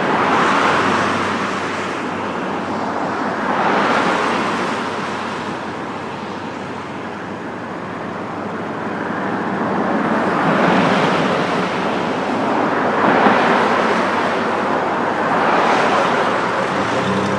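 Road traffic: several vehicles passing one after another, each a broad tyre-and-engine noise that swells and fades over a few seconds.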